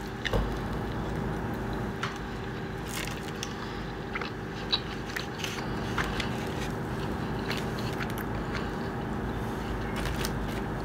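A person biting into a slice of pizza, then chewing with the mouth closed: scattered small mouth clicks over a steady low hum.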